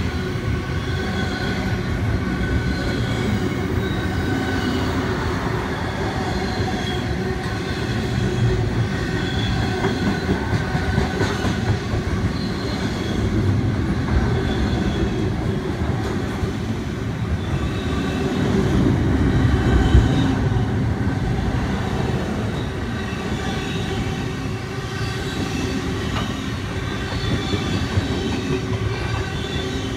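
Container freight train wagons rolling past close by: a steady rumble of steel wheels on the rails, with faint, wavering wheel squeals coming and going, swelling slightly about two-thirds of the way through.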